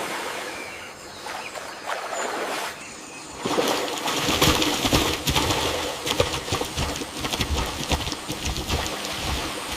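Rainforest ambience with bird calls, becoming louder and busier about three and a half seconds in, with many short clicks and rustles.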